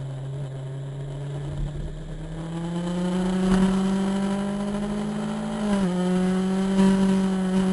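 Motorcycle engine running under way, its pitch rising over the first three seconds or so, then holding steady with a brief dip about six seconds in.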